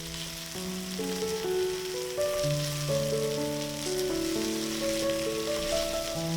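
Food sizzling as it fries in a pan, a steady crackling hiss, under background music of slow held notes.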